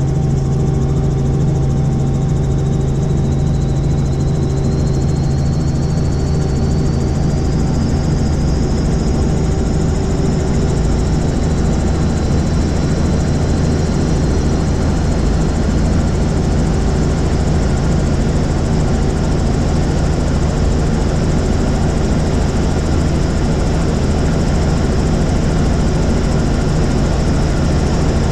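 Helicopter in flight: loud, steady engine and rotor noise, with a high thin whine that slowly rises in pitch over the first ten seconds or so and then holds.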